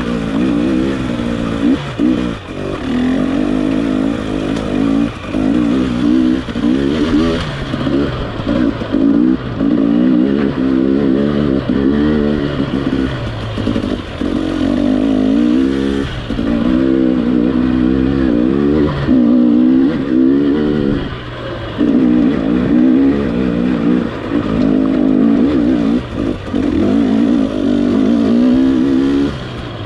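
Gas Gas EX300 TPI's 300 cc single-cylinder two-stroke engine worked hard on a rough trail, the throttle repeatedly opened and eased off so the pitch keeps rising and falling, with brief drops where the throttle is shut and occasional short knocks.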